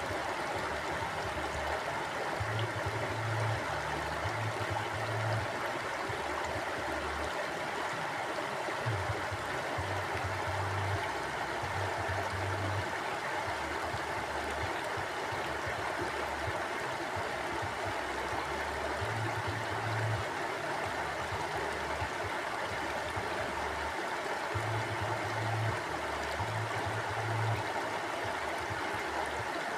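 Stream water flowing and rushing steadily, with a low rumble that comes and goes every few seconds.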